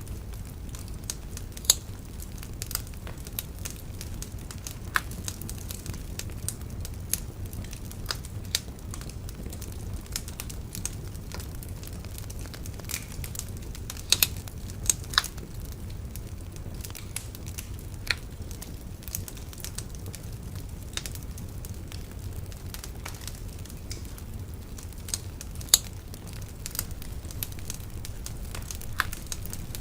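Wood bonfire crackling, with irregular sharp pops and snaps over a low steady rumble of the burning fire; a few pops stand out louder, near 2 s, around 14 to 15 s and near 26 s.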